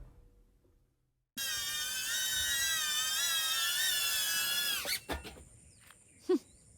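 Small high-speed motor whining, its pitch wavering, then spinning down with a falling glide. It is followed by a faint steady high-pitched insect drone, a couple of clicks and a short low blip near the end.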